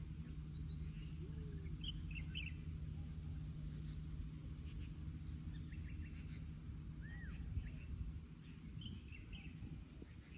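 Small birds chirping and calling over a steady low hum, with one short knock about seven and a half seconds in.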